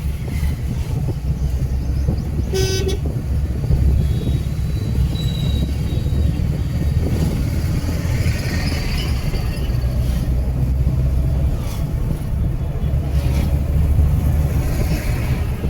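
Steady low rumble of travel or wind noise, with one short vehicle horn toot about two and a half seconds in.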